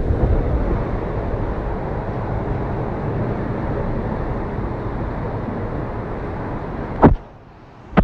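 Hurricane wind buffeting the microphone with surf behind it, a steady low rumble. About seven seconds in, a sharp knock, and the rumble drops away abruptly.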